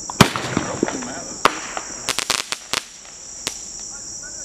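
Sharp firework bangs and crackles: a loud crack just after the start, another a second or so later, a quick rattle of five or six pops near the middle, then one more. Crickets chirp steadily throughout.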